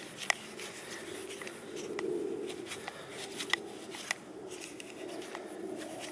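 Paracord rubbing and rustling as it is wound tightly around a Mora knife sheath, with a dozen or so scattered sharp pops from the campfire, the loudest about a third of a second in.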